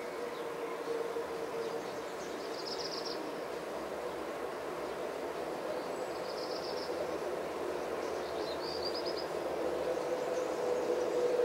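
Steady background hum with a faint held tone, and three short, high bird chirps spaced a few seconds apart, the last a quick trill.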